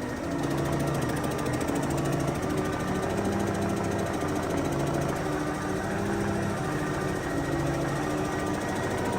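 Cummins NTA 855 inline six-cylinder diesel running with a steady, rapid clatter, under a background music bed.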